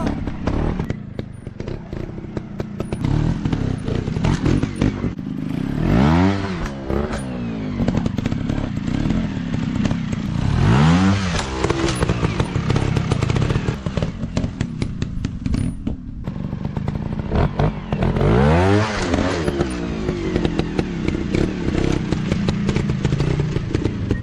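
Dirt bike engine running, revved up and back down three times, with rattling and knocking from the bike throughout.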